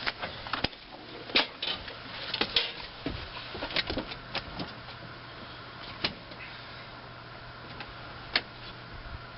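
Scattered clicks and knocks, busiest in the first few seconds and with one more near the end, over a faint steady low hum. These are handling sounds from the cab of a John Deere 4255 tractor, its door and controls being worked, before a cold start.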